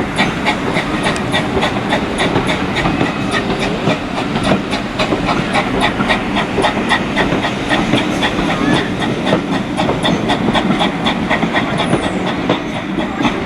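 Model train running on its track, with a steady run of rhythmic clicks as the wheels pass over the rail joints.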